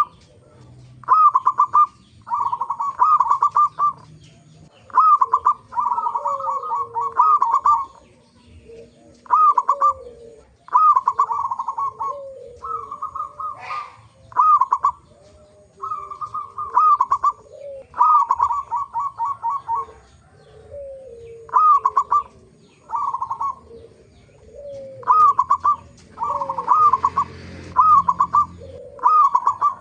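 Zebra doves (perkutut) cooing: short phrases of rapid staccato coos, one every one to two seconds, with softer, lower falling coos in between.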